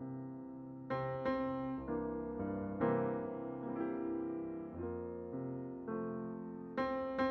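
Gentle solo piano music, single notes and chords struck one after another, each ringing and fading before the next.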